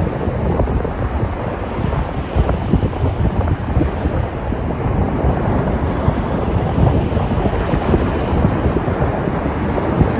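Sea surf washing onto the shore in a steady rush, with wind rumbling on the microphone.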